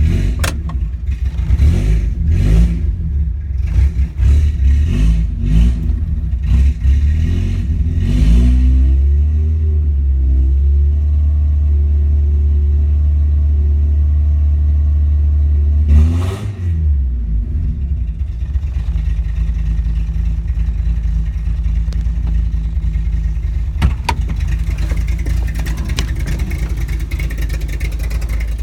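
1989 VW Golf GL's four-cylinder engine revved in repeated short blips, then held at a steady raised speed for about seven seconds. About halfway through it drops back to a steady idle.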